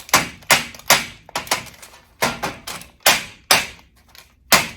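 A metal tablespoon knocked against a pan about nine times in sharp, irregular strikes, to free a puck of pressed minced garlic stuck in the spoon.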